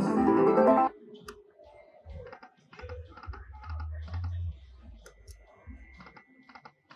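Slot machine in play: a short, loud tonal sound effect, then a run of irregular light clicks and taps as the game spins.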